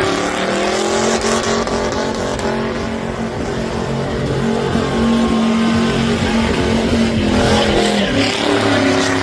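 Truck engine revved hard and held at high revs during a burnout, over a steady rushing haze. The revs rise at the start, sag about eight seconds in, then climb again.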